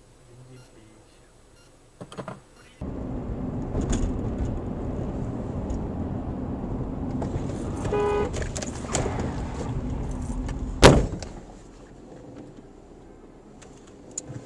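Car driving noise with a short horn beep past the middle, then a single loud crash impact, after which the driving noise falls away.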